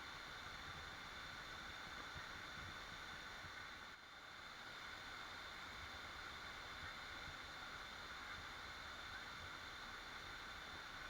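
Waterfall rushing steadily, an even hiss of falling water, with a brief dip in level about four seconds in.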